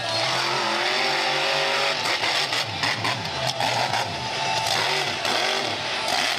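Monster truck engine running hard. Its pitch holds fairly steady for about two seconds, then rises and falls repeatedly as the throttle is worked.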